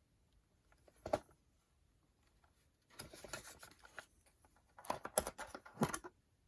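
Handling noises: a single sharp knock about a second in, then two spells of rustling and clattering.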